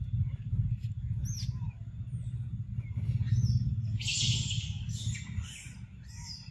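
Birds chirping in short high calls, with a louder, noisier high call about four seconds in, over a steady low rumble.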